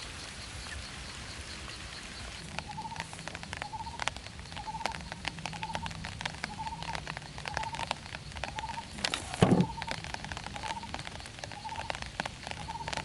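Quail giving a short rising chirp over and over, about one every three-quarters of a second, over a scattered patter of small clicks and crackles. About nine and a half seconds in there is one louder rustling thump.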